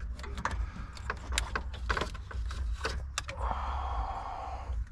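Scattered sharp clicks and knocks of tools or metal parts being handled, followed by a hiss lasting about a second near the end, over a steady low hum.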